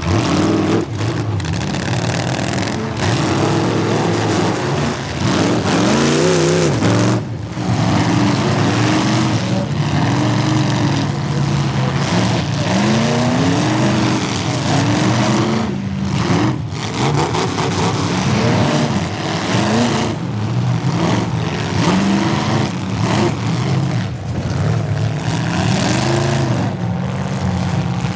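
Demolition derby cars' engines revving hard, their pitch repeatedly rising and falling as the cars accelerate and back off.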